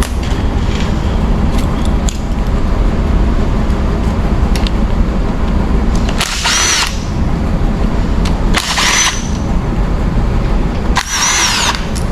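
Handheld power tool run in three short bursts of under a second each, about two seconds apart, each with a high whine that rises and then falls. Under them runs a steady low background noise.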